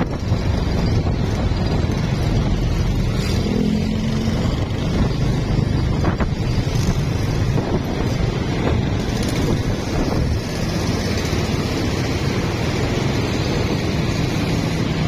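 Wind rushing over the microphone with a small motorcycle running underneath, as heard while riding a carburetted Honda Blade 110 cc single-cylinder underbone. The noise is loud and steady throughout.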